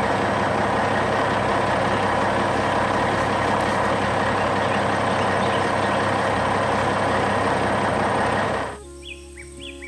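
Heavy machinery running loud and steady, a dense mechanical din with a few constant tones, cutting off abruptly near the end. Quieter background music with chirping follows.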